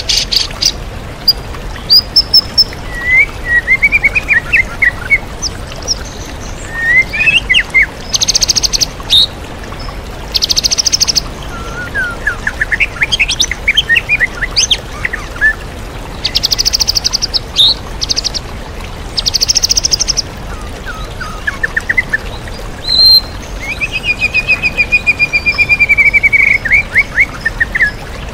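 White-rumped shama singing a varied song of slurred whistles and trills, broken by several loud, fast buzzy rattles about a second long, its phrases filled with mimicked calls of other birds. A steady rush of waterfall runs underneath.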